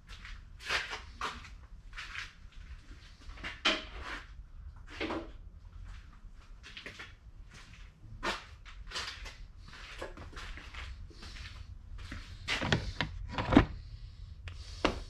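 Irregular knocks, clicks and clinks of hand tools and sockets being handled and set down, with a steady low hum underneath.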